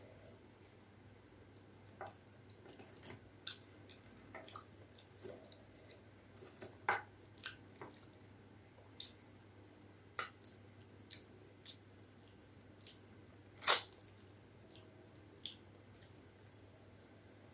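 Wet chewing and mouth sounds of a person eating soft khichdi and chicken curry: scattered short squishes and clicks at irregular intervals, the loudest about 14 seconds in, over a faint steady hum.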